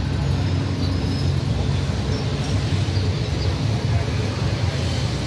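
Steady low engine hum of a Toyota Corolla XLi idling with the hood open.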